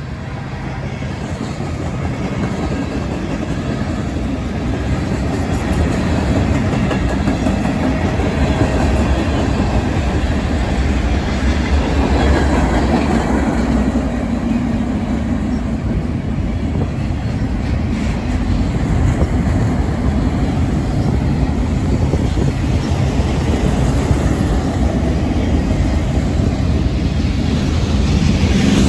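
Norfolk Southern freight train with a consist of diesel-electric locomotives passing close by: engines running and steel wheels rolling on the rails. The sound is a heavy, low rumble that grows louder over the first several seconds and then holds steady.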